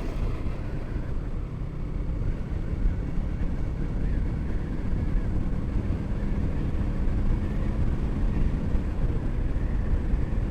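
Motorcycle being ridden at a steady pace: an even engine drone under a low rumble of road and wind noise.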